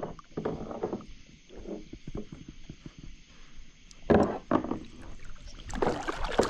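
Irregular knocks, bumps and rustling on a kayak as a big blue catfish is handled and thrashes aboard, growing louder and busier near the end.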